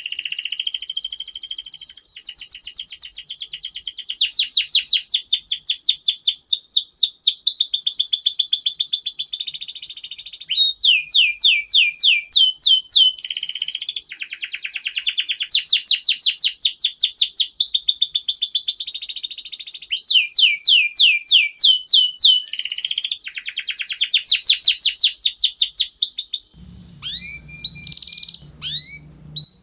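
Domestic canary singing a long, loud song of rapid trills, each run of fast repeated notes switching to a new pattern every second or two. Near the end the song breaks off into a few separate chirps over a low hum.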